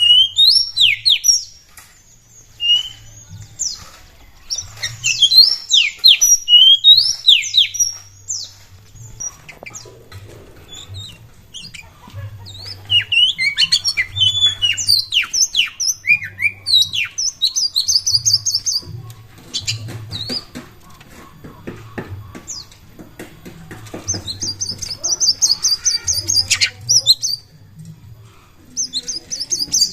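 Oriental magpie-robin singing loudly in bouts of quick, falling whistled notes, later mixed with harsh, buzzy chattering phrases, with short pauses between bouts.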